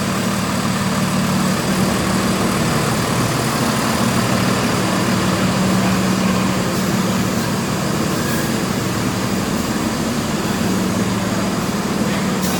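Fire apparatus diesel engine idling steadily at low revs.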